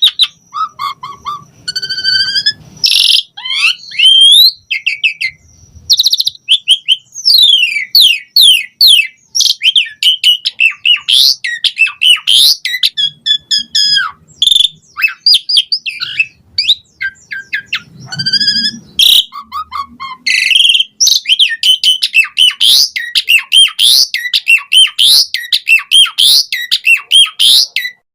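Asian pied starling singing a long, varied song: a dense run of whistles, chirps, rising and falling notes and fast trills, one phrase straight after another, with mimicked fill-in phrases.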